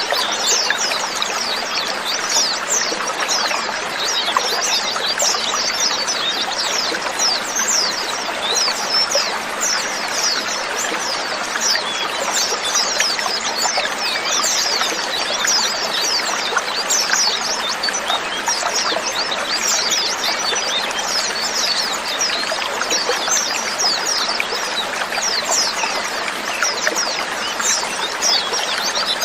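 A large flock of white-eyes (pleci, Zosterops) chirping nonstop, many thin, high, quickly falling calls overlapping into a dense chatter.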